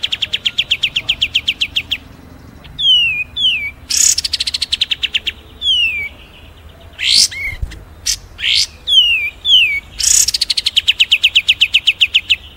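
Mixed songbird calls from a bird-mastering recording combining kapas tembak, cililin and fighting house-sparrow calls: a fast trill of evenly repeated notes, then short downward-sliding whistles and sharp chips, then the fast trill again near the end.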